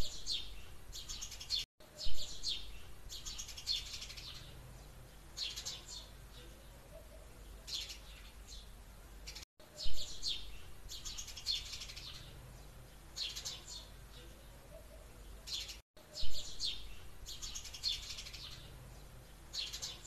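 Small birds chirping in quick bright clusters every second or two, with a few brief gaps where the sound cuts out completely.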